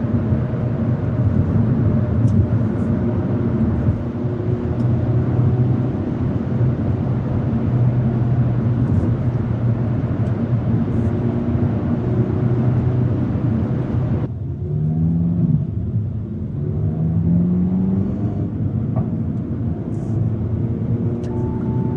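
Hyundai Elantra N's turbocharged 2.0-litre four-cylinder engine and exhaust heard while driving, a steady drone at cruising revs. About two-thirds of the way in the sound turns suddenly duller, and the revs then climb twice under acceleration.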